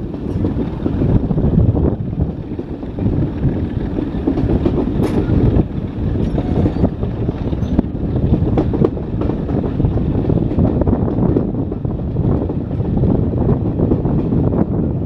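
A train on the Chinnor & Princes Risborough heritage railway running along the track: a steady low rumble with repeated clicks of wheels over the rails.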